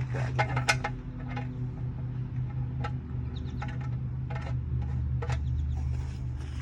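Scattered metal clicks and clinks of hand tools working the engine's oil drain plug, heard over a steady low hum.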